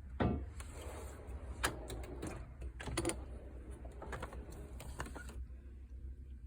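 Hand tools clicking and clattering as they are handled in a toolbox, a rapid uneven run of sharp clicks and knocks lasting about five seconds.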